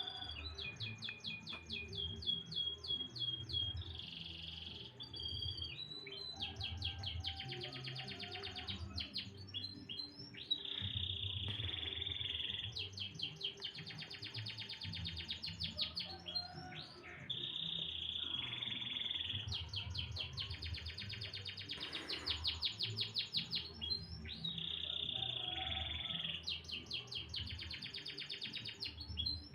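Domestic canary singing a long, continuous song of rapid trills and rolling phrases, one phrase running into the next every few seconds.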